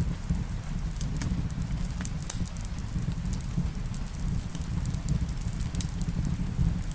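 Wood fire in a fireplace crackling, with sharp pops scattered irregularly over a steady low rumble, and rain falling steadily underneath.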